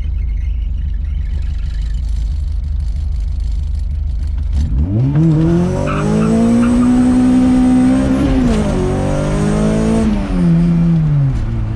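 Honda CRX engine and exhaust heard from inside the cabin, with a new muffler in the rear section of the exhaust. It runs with a low rumble at first, then revs up hard under acceleration about five seconds in. The pitch dips briefly and climbs again partway through, then falls away near the end as the throttle eases off.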